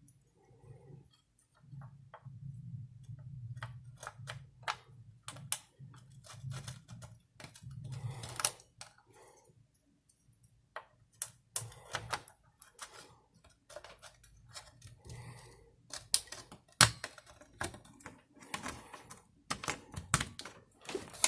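Irregular clicks and knocks of small hard parts being handled and fitted by hand, growing busier in the second half, over a low steady hum that fades out about three-quarters of the way through.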